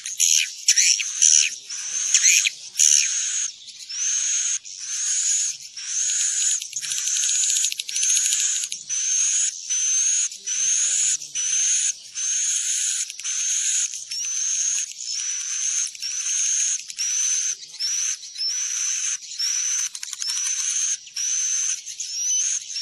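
Recorded swiftlet lure calls: a rapid, even series of high, twittering chirps, each rising then holding its pitch, repeating a little more than once a second. The calls are louder and more crowded over the first few seconds, then settle into a steady repeating pattern. These are the edible-nest swiftlet calls played to draw the birds into a nesting house.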